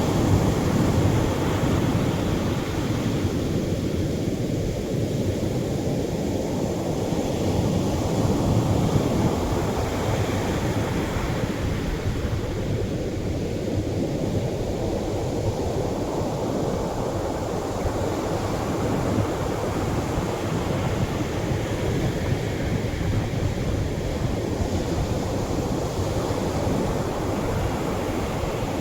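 Gentle Atlantic surf breaking on the shore: a steady wash of water that swells and falls back every eight seconds or so as each wave breaks.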